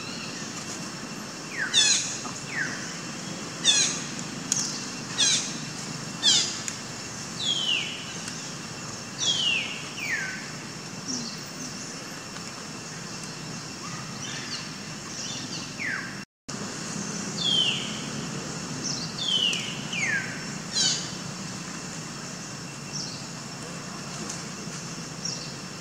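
A bird calling with short, high whistles that each sweep quickly downward. They come over a dozen times, one every second or two, in two bouts.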